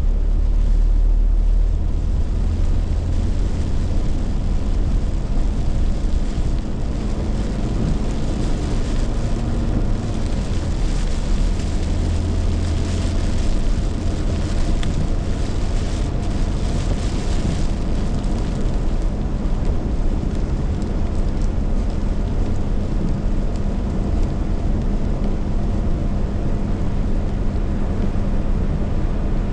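Heavy rainstorm: a steady, loud rush of rain and wind with a deep rumble underneath, unbroken throughout.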